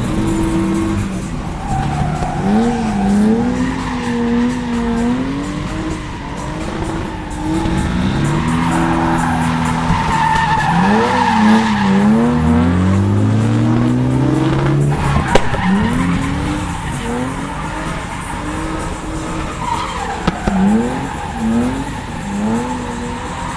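BMW E36's inline-six engine revving hard and falling back again and again while the car drifts, with continuous tyre squeal. One sharp bang about fifteen seconds in is the loudest moment.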